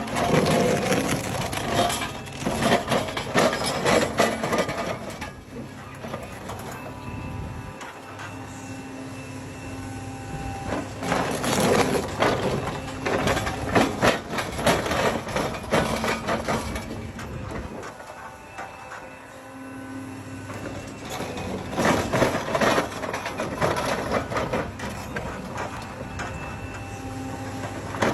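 Heavy excavator's engine running with a steady hum, broken by three spells of dense crunching and cracking, each several seconds long, at the start, in the middle and near the end.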